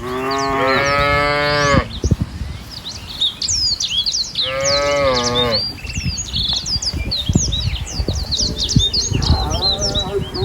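Cattle mooing: three long calls, the first two lasting about one and a half seconds each and the third starting near the end. Small birds chirp all through behind them.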